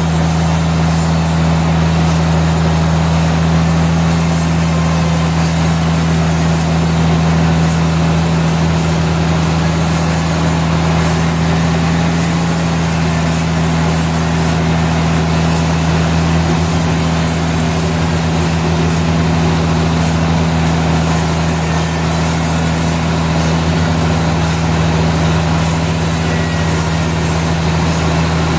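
Sawmill machinery running steadily: a constant low hum with a strong steady tone that does not change, with no cut starting or stopping.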